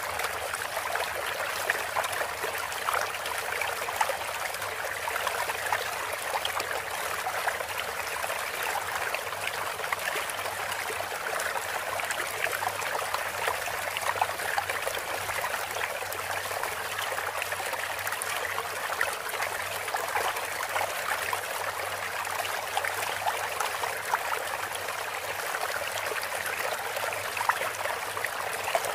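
Running water from a trickling stream, a steady rushing and splashing with no breaks.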